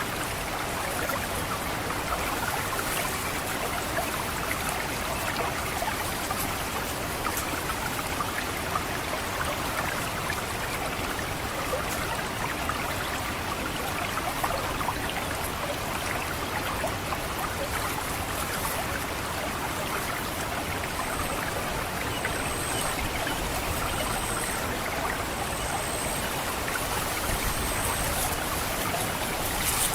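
Water trickling and gurgling steadily through a rice paddy. In the last third, a thin, very high note sounds about five times, roughly a second apart: the 'ngecit' call of an orange-headed thrush.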